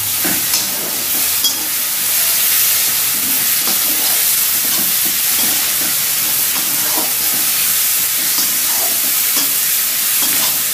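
Onions and ground spices sizzling in hot oil in a metal kadai while a spatula stirs them, scraping the pan now and then: the steady frying hiss of the masala being sautéed (kasha).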